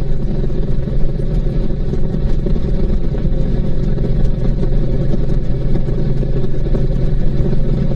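Honda VTX1800C's big V-twin engine running steadily at cruising speed, with an even rush of wind noise over it.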